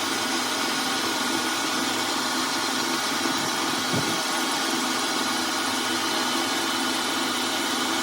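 A machine tool running steadily, an even hum and hiss with a few steady tones, and a faint knock about four seconds in.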